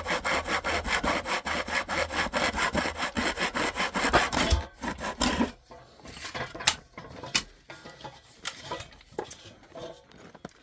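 Hand sawing with quick, even back-and-forth strokes that stop about four and a half seconds in, followed by a few scattered knocks and handling clatter.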